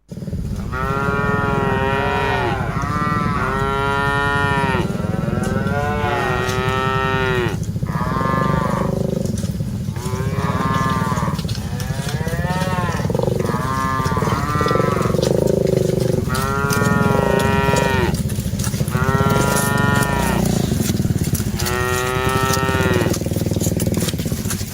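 Cattle mooing over and over, a dozen or more drawn-out moos about a second long each, one after another, over a steady low rumble.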